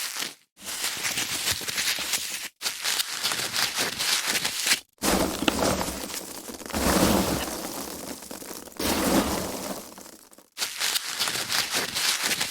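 Foam packaging being handled: squeaking, rubbing and crinkling noise in several separate passes with short silent gaps between them.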